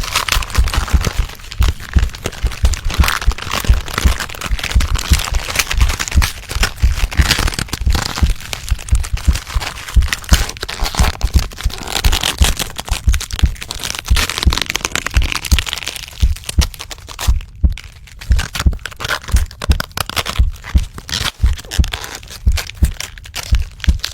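Body-transformation sound effect: a dense, irregular run of cracking and crunching with low thuds underneath, easing briefly about two thirds of the way in.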